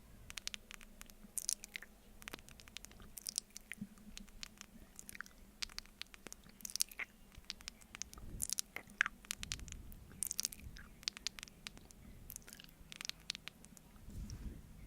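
Close-miked ASMR mouth sounds of eating honey from a spoon: wet, sticky clicks and smacks in irregular clusters, with a few soft low rumbles.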